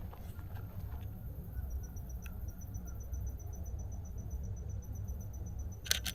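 An insect calling in an even run of high, rapid chirps, about seven a second, starting about two seconds in. A low steady rumble lies underneath, and two sharp clicks come just before the end.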